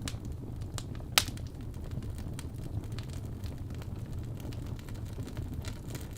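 Wood logs burning in a fireplace: a steady low rumble of flames with scattered small crackles and one sharp loud pop about a second in.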